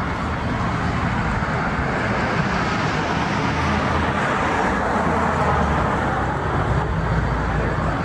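Road traffic: a motor vehicle running steadily, louder through the middle.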